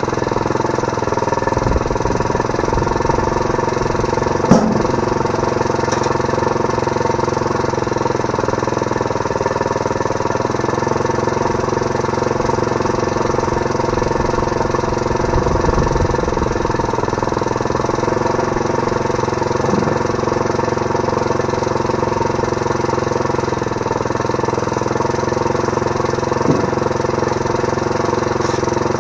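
Small Briggs & Stratton engine running steadily, driving a homemade bandsaw through a right-angle gearbox. A sharp knock comes about four and a half seconds in, and a fainter one near the end.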